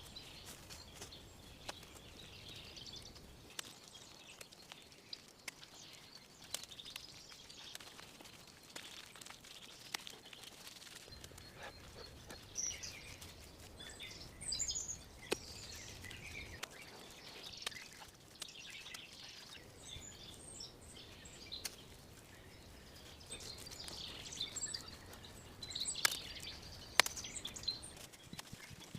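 Small birds chirping here and there in woodland over a steady hiss of outdoor air, with a few sharp knocks or snaps, the loudest two near the end.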